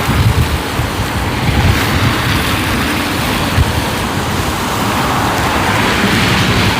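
Wind buffeting the microphone in low, uneven rumbles over the steady hiss of road traffic, which swells as a vehicle passes near the end.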